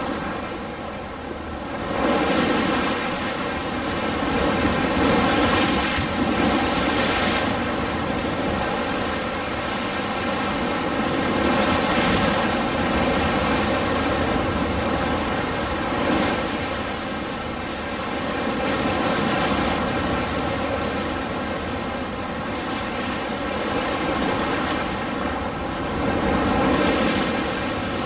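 Ocean waves washing on a shore: a continuous rushing hiss that swells and falls back as each wave comes in, every few seconds.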